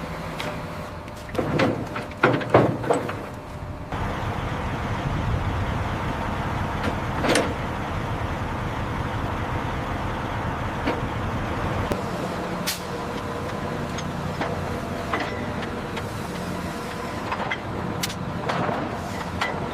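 Steady mechanical hum of working machinery. A cluster of loud metallic knocks comes about one and a half to three seconds in, and single sharp clicks follow now and then.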